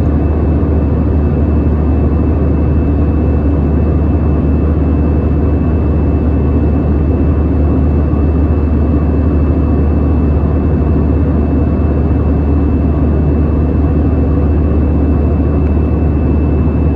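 Airbus A321 jet engines heard from inside the cabin: a steady, loud roar with a deep low rumble and a thin, steady high whine above it.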